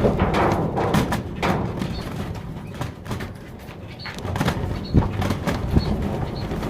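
Caged doves moving about, with irregular thumps and knocks and a few faint, short high chirps.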